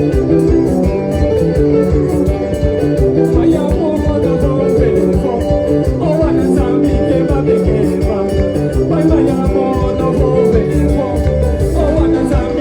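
Live band music, guitar over a steady beat, with some singing.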